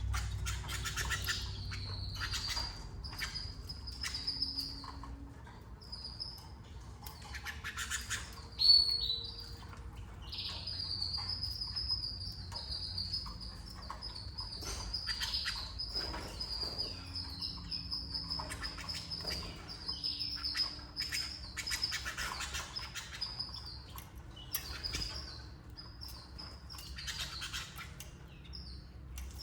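Canaries chirping and trilling, with a long, high, slightly wavering note held for several seconds at a time, over scratching and rustling. There is a sharp knock about nine seconds in.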